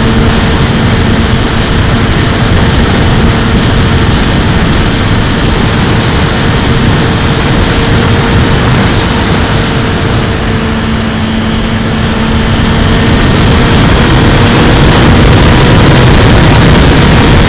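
Loud wind rush over the microphone of a camera riding on a Bixler 2 RC plane in gusty flight. Under it runs the steady whine of its electric Turnigy motor and pusher propeller at an even throttle.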